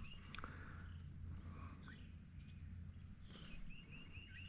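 Faint outdoor ambience with birds chirping: a quick run of short repeated chirps about three seconds in, and brief high thin notes about two seconds in and near the end, over a steady low background noise.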